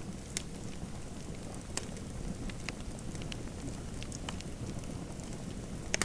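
Fire crackling in a fireplace: a steady low rumble of flame with scattered sharp pops and snaps at irregular moments, the loudest double pop near the end.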